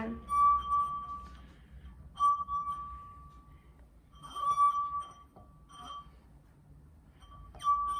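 A drinking glass holding water sings with a steady, clear ringing tone as a wet finger circles its rim, like a glass harp. The tone swells and fades in about four stretches of a second or so each.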